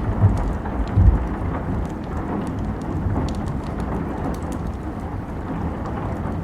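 Steady rain hiss with a wood fire crackling in scattered sharp pops, and two low rumbling thuds in the first second or so.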